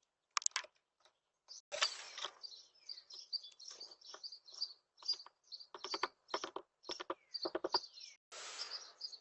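Small birds chirping in quick, repeated short high notes, mixed with a series of sharp taps and clicks and two short bursts of noise.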